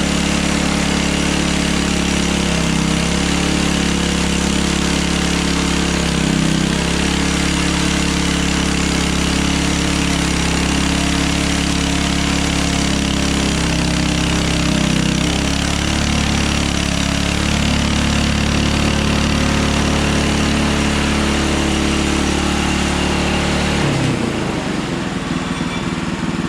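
Hudson Hunter bandsaw sawmill's engine running steadily, with the band blade cutting through a log. About 24 seconds in the sound changes suddenly and drops a little.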